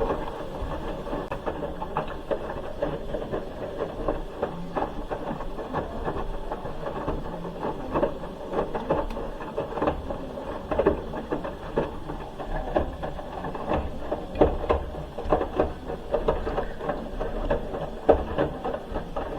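Hoover H-Wash 300 Plus washing machine turning its drum during the wash, with a low motor rumble and irregular knocks and swishes from the laundry tumbling inside.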